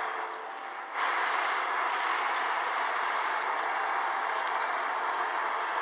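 A steady rushing noise, which rises sharply about a second in and then holds even.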